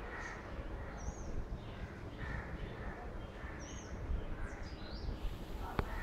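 Wild birds calling: a few short, high chirps and calls scattered over a steady low background rumble.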